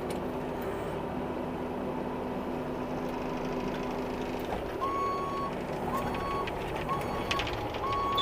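Bobcat E26 mini excavator's diesel engine running steadily while its travel alarm beeps, four short beeps in the second half. A few faint metallic clanks come near the end.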